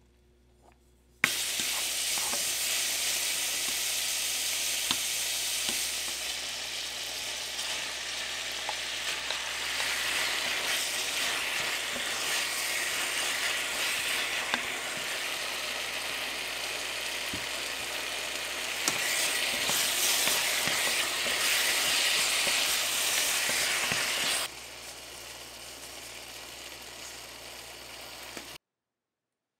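Squid and pork belly in red chili sauce stir-frying in a hot pan, sizzling loudly while a wooden spatula stirs and taps through it with scattered clicks. The sizzle starts about a second in, drops to a quieter sizzle near the end, then cuts off.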